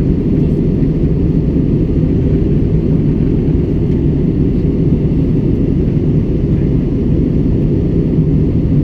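Steady low drone inside an airliner cabin in flight: engine and rushing-air noise, even throughout, with nearly all of it in the low range.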